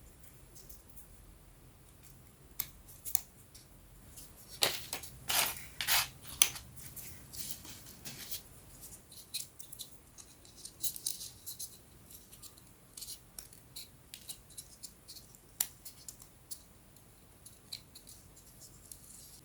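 Hands working thin plywood pieces of a 3D wooden puzzle: scattered sharp clicks, snaps and light scrapes, with a quick cluster of louder snaps about five to six seconds in.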